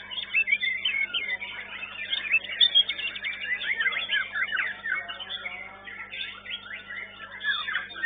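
White-rumped shama (murai batu) singing: a dense, fast stream of varied chirps and whistles, over a steady low hum.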